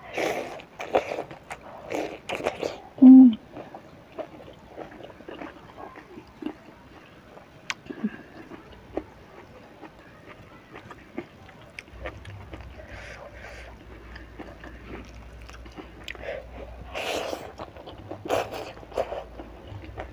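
Close-miked eating: biting and chewing fried eggplant and crisp fried snakeskin gourami eaten by hand, with wet mouth clicks and smacks. The busiest chewing comes in the first few seconds and again near the end, with a short low hum from the eater about three seconds in.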